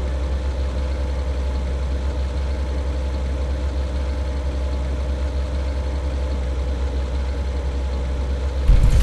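Truck diesel engine running with a steady low drone and a faint constant whine.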